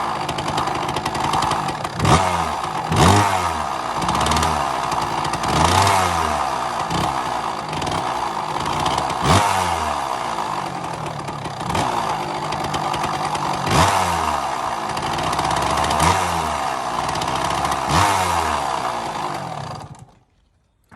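KTM motorcycle engine running cold after a hard kick-start, revved in repeated throttle blips about every one to two seconds. The sound cuts off suddenly about a second before the end.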